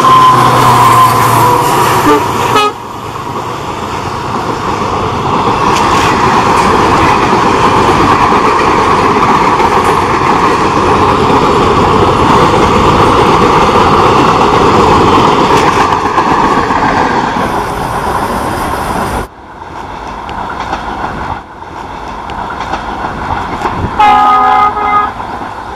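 WDP 4 (EMD GT46PAC) diesel locomotive passing at speed, with a steady tone that falls slightly and drops away sharply about two and a half seconds in. Then comes the steady noise of express coaches rolling over the rails for some sixteen seconds. The sound cuts abruptly to quieter track noise, and near the end an approaching locomotive sounds a loud horn blast of several tones.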